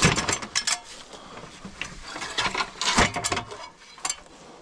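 Tree-rigging gear being handled, with metallic clicking and rattling in short clusters: one at the start, a longer run about halfway through, and a single click near the end.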